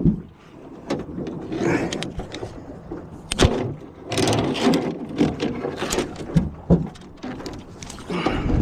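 Irregular knocks and scrapes on a boat, with patches of rushing noise, while an alligator is held on a snare pole at the boat. The sharpest knock comes about three and a half seconds in.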